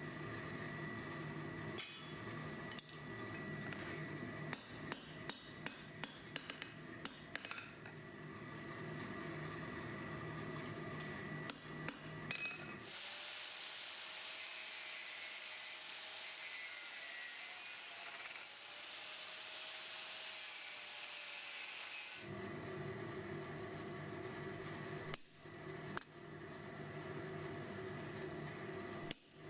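Hand hammer blows on metal at the anvil, in quick runs of sharp strikes over a steady low hum. In the middle they give way to a steady hiss for about nine seconds before the hammering resumes.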